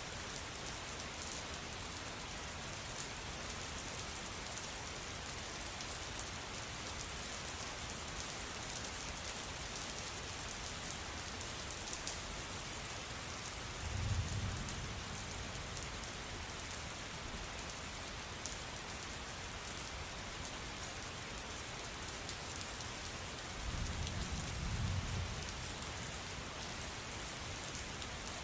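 Steady rain falling. Two brief low rumbles of distant thunder come through it, one about halfway and one near the end.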